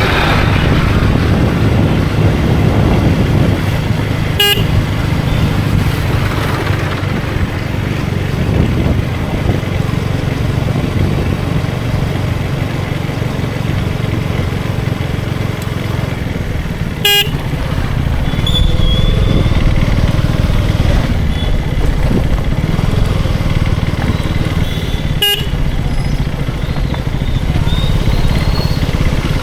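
KTM Duke 250's single-cylinder engine running at a steady cruise with wind and road noise, heard from the rider's seat. A few brief horn toots from other traffic come through faintly in the second half, and three sharp clicks stand out along the way.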